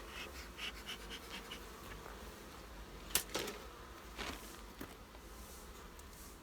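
Honeybees buzzing steadily around an open hive of a busy colony, with a sharp click about three seconds in and a few softer ticks and scrapes from handling the hive.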